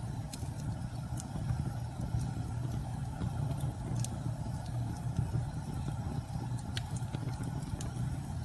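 Wood fire crackling with scattered, irregular sharp pops over a steady low rumble of storm wind.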